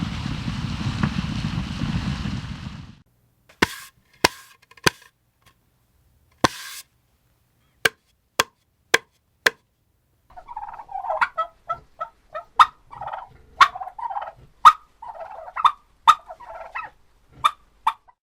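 A turkey calling: a string of sharp single clucks about every half second, then from about halfway in, bursts of rapid warbling gobbles mixed with the clucks. The first few seconds hold a steady rushing noise that cuts off.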